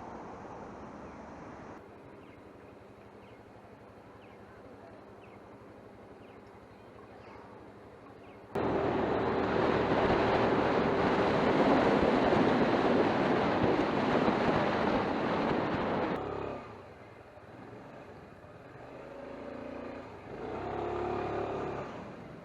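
Riding noise from a motor scooter on the road: engine and road noise, broken by a loud rushing stretch of several seconds in the middle that starts and stops abruptly. Near the end an engine rises in pitch as it speeds up.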